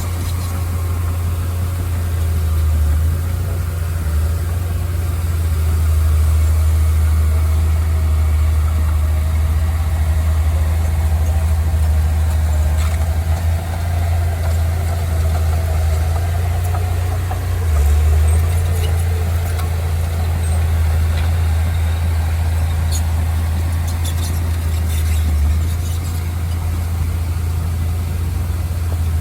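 Heavy machinery engine running steadily with a low, continuous rumble that swells slightly now and then.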